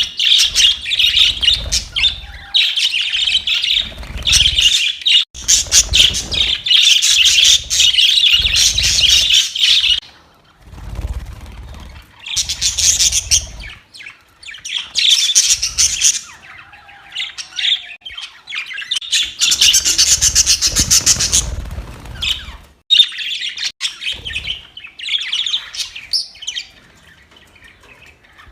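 Budgerigars chattering and squawking in a dense, rapid stream for about the first ten seconds, then in separate bursts with short lulls between.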